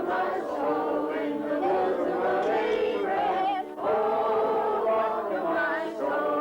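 A choir singing, several voices together holding and shifting sustained notes, with a short dip in the sound just before the four-second mark.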